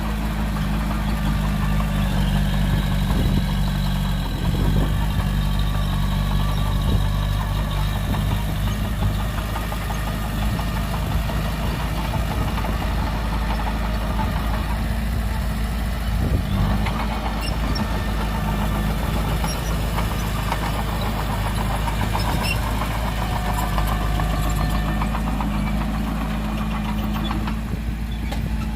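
Heavy diesel engines of earthmoving machinery running steadily, with a few short knocks, around three to five seconds in and again around sixteen seconds.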